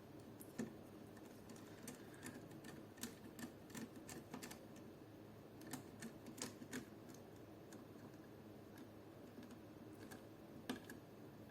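Faint, scattered clicks and taps of small tools and metal parts being handled while a hop-up unit is fitted into an airsoft AK rifle, coming in short clusters a few seconds apart.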